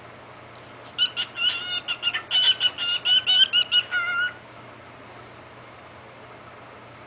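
Cockatiel chattering: a quick run of high, whistly syllables, his mimicked baby-bird babble, lasting about three seconds and stopping suddenly.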